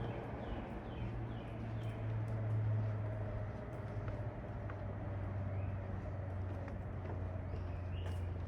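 A steady low engine drone, swelling a little a couple of seconds in. A bird gives a run of about five short, falling chirps near the start, with a few more chirps near the end.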